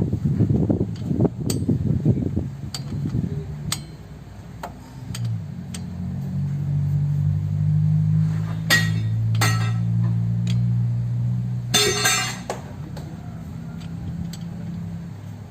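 Hand tools and metal parts clinking and tapping against each other, with a rumbling noise at first and a steady low hum starting about five seconds in.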